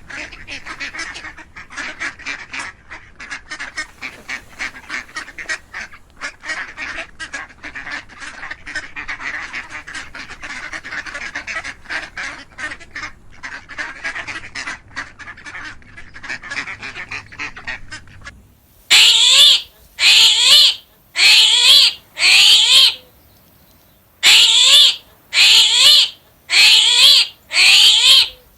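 A flock of ducks and geese quacking and honking in a dense, continuous chatter. About two-thirds of the way through it changes abruptly to a series of about eight loud, separate calls roughly a second apart, each a quick run of rising notes.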